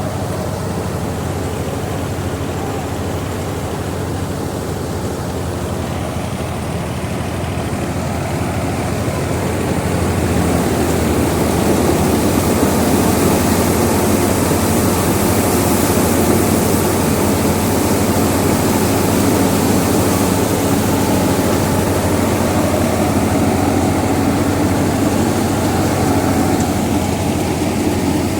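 Tractor engine driving a wheat thresher, running steadily with a low engine hum under a noisy machine rush. About a third of the way in the sound grows louder and fuller and stays so.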